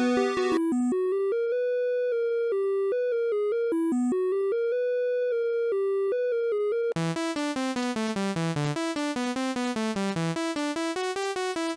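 Retro-style synthesizer music loops. A single plain synth melody plays with no beat, then about seven seconds in a new loop starts with a falling bass line, chords and a steady ticking beat.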